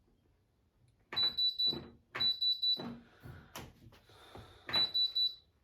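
Hotpoint WMFUG942 washing machine's control panel beeping as buttons and the programme dial are worked to select the Autoclean cycle. There are three high-pitched beeps of about half a second each, with clicks and handling noise in between.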